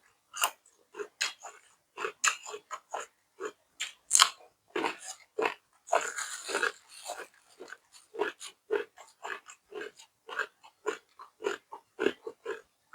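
Close-miked chewing: a person biting and crunching mouthfuls of food, steamed tongue eaten with crisp vegetables, in quick repeated chews about two or three a second, with a longer noisy crunch around the middle.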